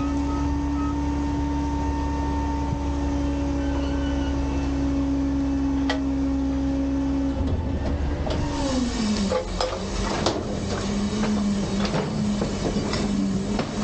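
Garbage truck's hydraulic packer cycling: a steady pitched whine from the revved engine and hydraulics drops in pitch about eight seconds in, followed by a run of metallic clanks and rattles.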